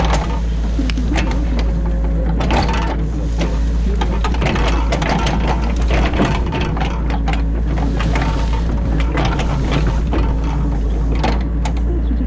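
Excavator engine running steadily, heard from inside the cab, with repeated knocks and clatters of the machine at work digging out the ditch.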